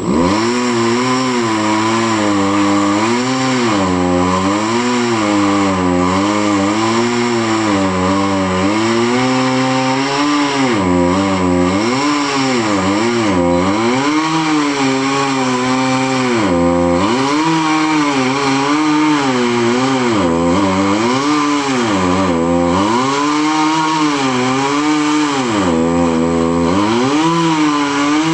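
Chainsaw running hard and cutting, its engine pitch sagging and climbing back every two to three seconds as the chain bites into the wood and frees up.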